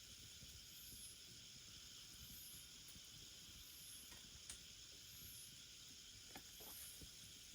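Faint wood fire crackling: a few sharp pops over a steady soft hiss, with a faint high chirp repeating about every second and a half.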